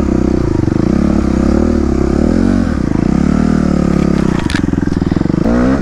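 Dirt bike engine running under a rider, its revs rising and falling several times as the throttle is opened and closed on a wooded trail, with a couple of brief clicks in the second half.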